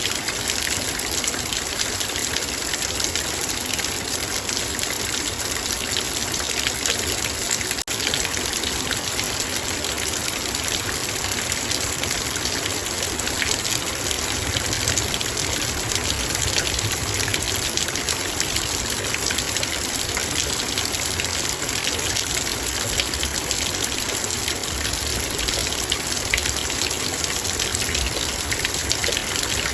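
Heavy rain falling on a metal bowl: a dense, steady hiss of drops with many small ticks throughout, broken only by a split-second gap about eight seconds in.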